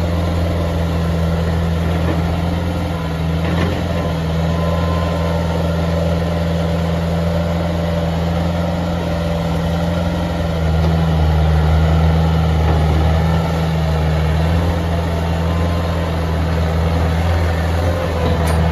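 Bobcat 864 skid steer's Deutz diesel engine running steadily at a low pitch, getting a little louder for a few seconds about midway.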